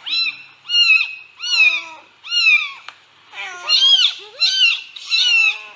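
A cat meowing over and over: short, high-pitched calls that rise and fall, about one a second.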